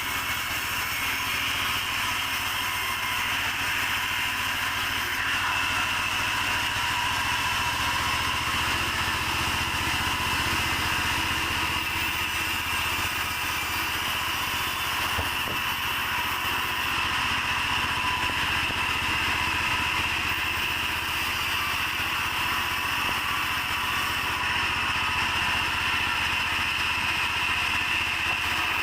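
Sawmill saw running steadily while sawing a mahogany log into beams, with a constant high whine over a low drone.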